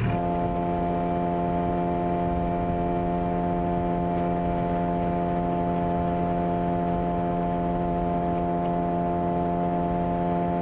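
Boat outboard motor running at a steady speed, holding one even pitch throughout.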